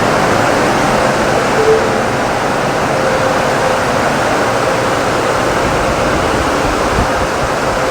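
Storm touchless car wash running: a steady rush of high-pressure water spraying, with a faint steady hum under it.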